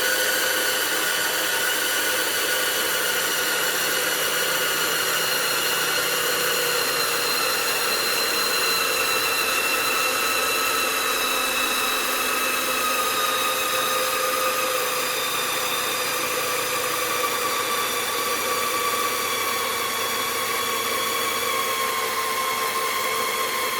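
CaDA M motor, a small LEGO Power Functions-compatible electric gear motor, running with a steady whine whose pitch falls slowly throughout as it slows under load.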